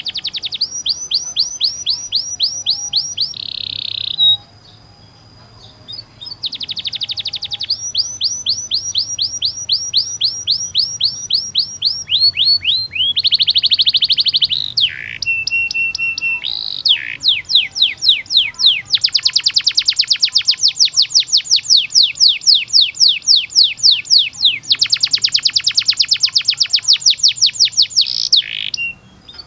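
Domestic canary singing long rolls: fast trills of repeated downward-sweeping whistled notes. The song pauses for about two seconds a few seconds in, then resumes.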